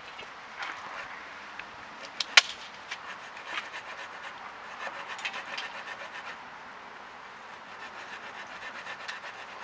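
Fallen branches and twigs being handled, crackling and rubbing in irregular clicks, with one sharp crack about two and a half seconds in.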